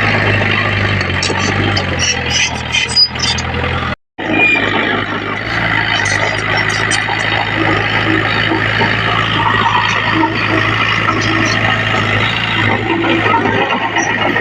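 Diesel engines of earthmoving machinery running steadily, with a few short metallic clanks in the first few seconds. The sound cuts out briefly about four seconds in.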